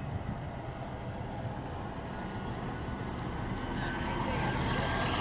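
Diesel engine of a Scania-chassis Irizar PB coach running as it moves off, a low rumble that grows steadily louder, with a whine coming in near the end.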